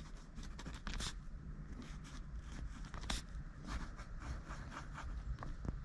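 Footsteps with irregular light scrapes and clicks.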